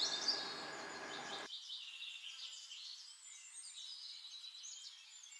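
Small birds chirping: a busy chatter of short, high twittering calls that goes on throughout. A low background hum cuts off about a second and a half in.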